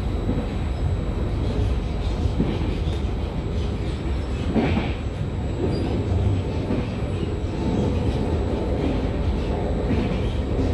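Steady running noise of a Trenitalia regional train heard from inside the carriage: the low rumble of wheels on rail at speed, briefly louder about four and a half seconds in.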